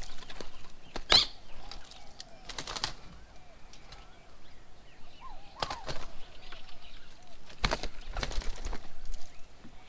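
Birds' wings flapping in about four short bursts, with faint bird calls behind.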